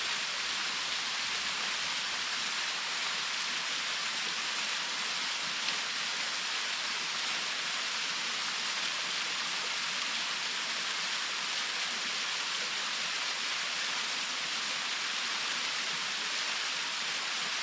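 Waterfall: a steady rush of falling and splashing water, an even hiss with its weight in the upper range and little low rumble.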